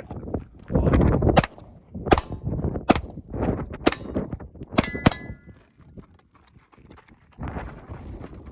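Six gunshots, spaced about a second apart and the last two in quick succession, with a brief metallic ring after the last shot. Low wind buffeting on the microphone underneath.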